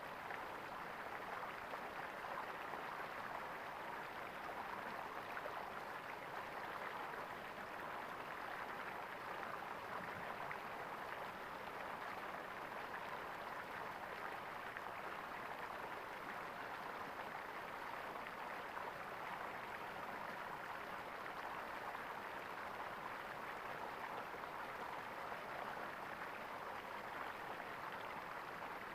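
Flowing water gurgling steadily, a continuous even rush with no breaks.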